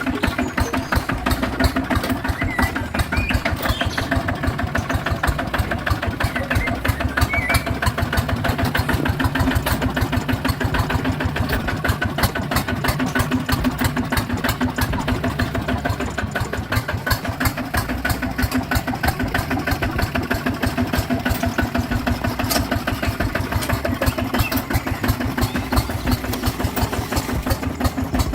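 Small engine of a mini tractor running steadily, with a fast, even chugging that holds the same pace throughout.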